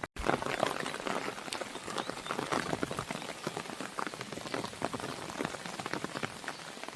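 Ambience of rain falling against a window mixed with a crackling fire: a steady hiss of rain dotted with many sharp crackles and pops. The sound drops out to silence for an instant just after the start.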